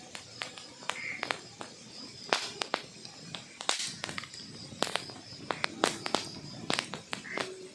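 Wood fire crackling in a fireplace: irregular sharp pops and snaps, several each second, with a few louder cracks.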